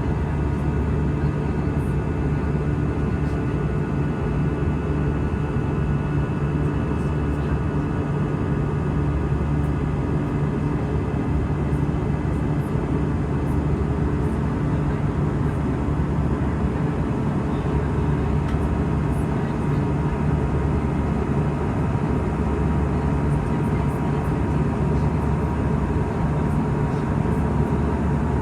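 Airbus A320 cabin noise: a steady, unchanging drone of engines and airflow heard from inside the cabin, with a few steady tones over it.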